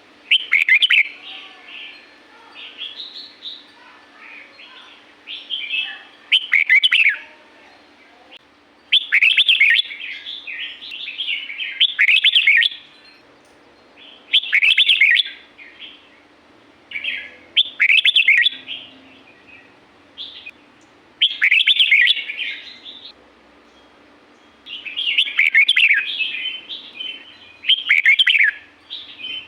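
Red-whiskered bulbul singing: short, loud phrases of quick falling notes, repeated every two to three seconds, with softer chatter in between.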